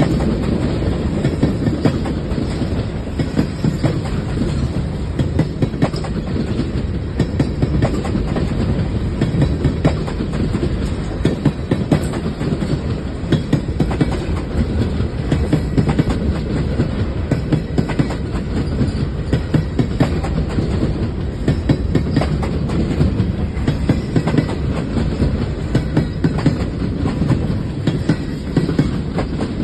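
Freight train cars rolling past at close range: a steady low rumble with a quick run of wheel clicks as the wheels cross rail joints.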